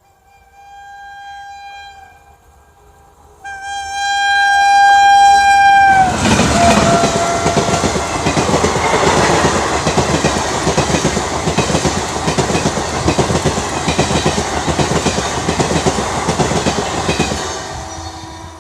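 Indian Railways locomotive horn blowing twice, a short blast and then a longer one that drops in pitch as the engine passes. A loud express train follows, rushing past at speed with its wheels clattering over the rail joints, then fading away near the end.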